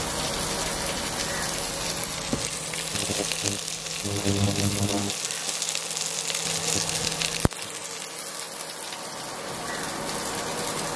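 Sliced onions and green chillies frying in hot oil in a pan, a steady sizzling hiss. A sharp click comes about seven and a half seconds in, and the sizzle is a little quieter after it.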